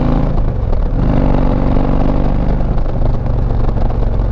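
Motorcycle engine running while riding. Its pitch drops about half a second in, then comes back up and holds steady.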